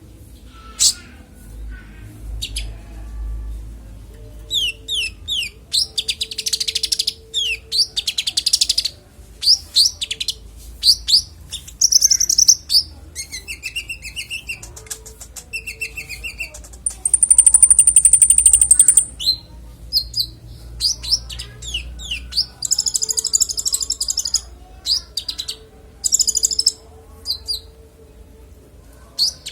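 Konin songbird singing a clear, varied string of chirps, quick down-slurred whistles and trills, its repertoire of mimicked calls. Its loudest phrase is a long high buzzing trill about halfway through.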